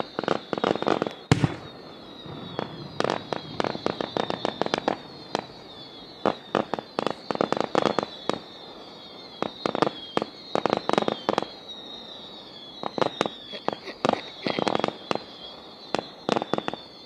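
Fireworks going off: rapid strings of sharp cracking pops in bursts every couple of seconds, over a high thin whistle that glides slightly downward, as from screamer (whistling) fireworks.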